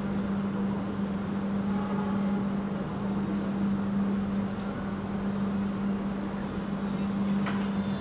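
Inside a moving stainless-steel passenger train carriage: steady running rumble with a constant low hum, and a faint click near the end.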